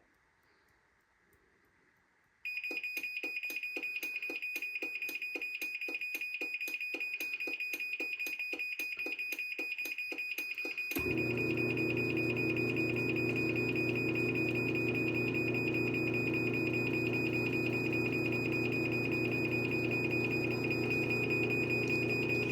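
Garage door opener's timer-to-close warning: a high beeping, about two beeps a second, starts a couple of seconds in. About eight seconds later the opener's motor starts running with a steady hum, the beeping carrying on over it as the door closes.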